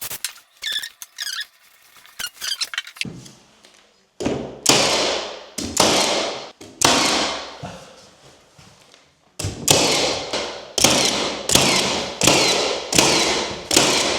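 A few short squeaks, then about a dozen sharp knocks in quick groups as an architrave is fixed around a door frame.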